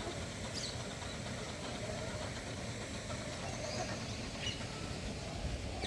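Steady low outdoor rumble, with a few faint, brief high bird chirps over it.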